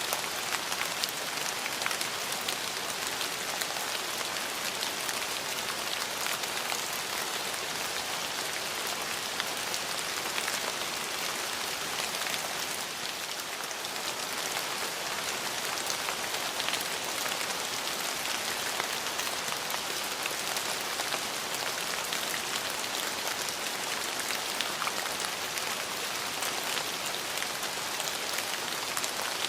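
Steady rain falling on a surface, an even hiss with many fine drop ticks throughout.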